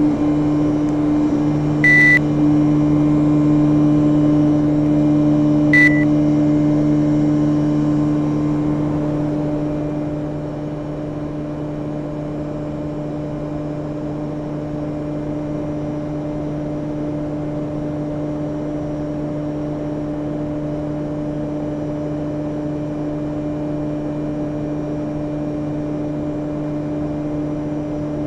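Panasonic inverter air conditioner running with a steady hum. Two short high beeps come about 2 and 6 seconds in, and the hum drops slightly in level around ten seconds in.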